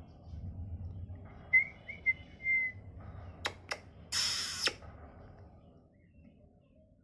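Ringneck parrot giving a few short whistled chirps, followed by two sharp clicks and a brief harsh, noisy burst about four seconds in.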